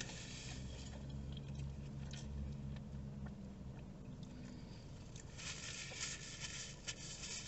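Faint chewing and paper-wrapper handling as a man eats a sauce-soaked chicken sandwich, over a low steady hum that fades out about four and a half seconds in.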